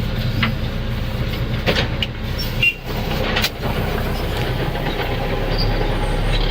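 Heavy truck's diesel engine running steadily under way, a low even drone, with a couple of brief rattles or knocks about two and three and a half seconds in.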